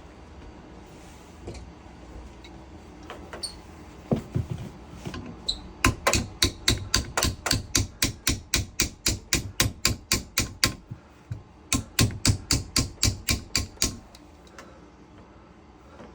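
Hammer striking in quick, even blows, about four a second, in two runs with a short pause between, after a few scattered knocks.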